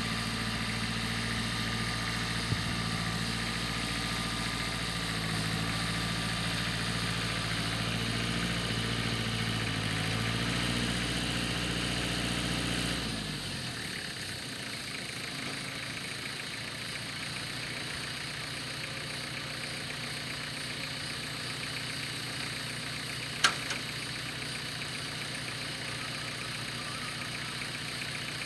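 Small tractor engine running at a steady idle, its pitch lifting slightly, then dropping away about halfway through to a quieter steady hum. A single sharp click sounds near the end.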